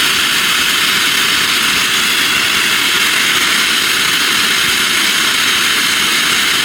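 Stanley Steamer's boiler being blown down through opened valves: a loud, steady, high-pitched hiss of escaping steam.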